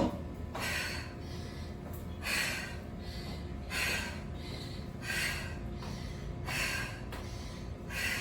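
A woman breathing hard from exertion, a loud breath about every one and a half seconds. A sharp knock right at the start.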